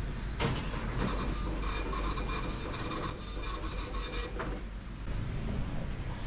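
Thermal receipt printer at a shop till printing a receipt: a buzzing rasp with a steady whine that starts about half a second in and stops after about four seconds, over a steady low hum.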